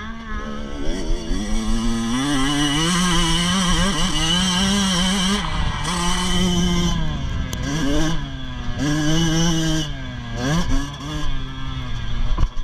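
Motocross bike engines revving hard, the pitch climbing, dropping off and climbing again several times as the throttle is opened and closed through the gears.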